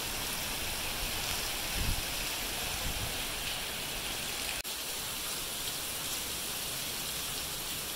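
Torrential rain pouring down in a steady, even hiss, with a momentary dropout about halfway through.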